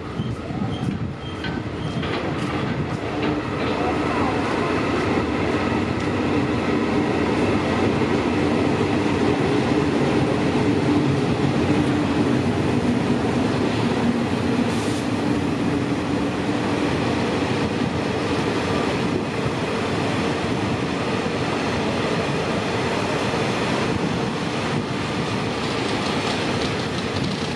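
A passenger train rolling past on the rails: a steady rumble of wheels on track, with a few clacks over rail joints in the first few seconds.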